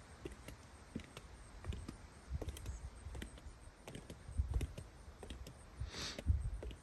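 Footsteps going down outdoor steps: irregular light clicks and soft low thumps, with a brief hiss about six seconds in.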